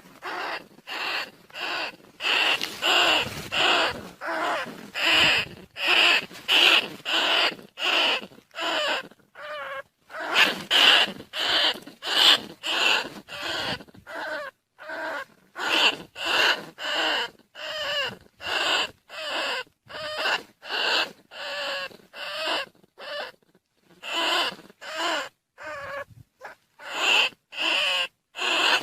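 Rice-field rats and bandicoot rats squeaking in short, wavering, shrill calls, about two a second, with a few brief pauses. This is a rat-calling lure recording meant to draw the rats in.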